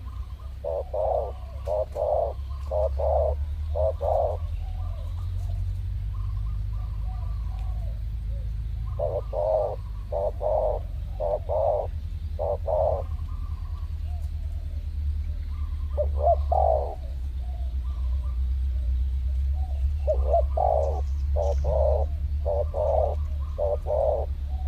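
Spotted doves cooing in four bouts of quick, repeated low notes, over a steady low rumble.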